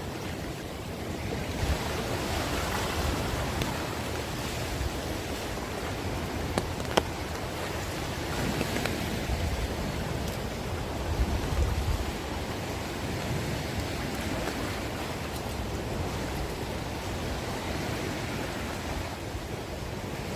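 Heavy rain falling as a steady hiss, with an occasional sharp tick.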